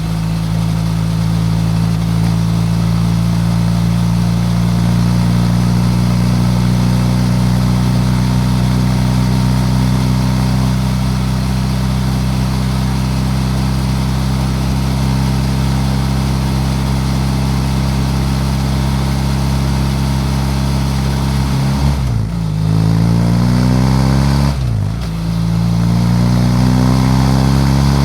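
BMW F800GS Adventure's parallel-twin engine running at a steady cruising speed for about twenty seconds, then shifting up through the gears near the end: the engine note drops and climbs again three times. Wind rushes over the microphone throughout.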